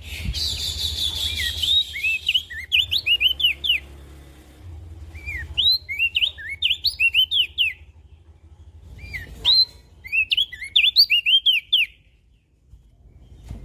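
Opior jambul (crested white-eye) singing: rapid runs of short, sweeping whistled chirps in three bursts separated by short pauses, with a brief harsh hiss at the start and a low hum underneath.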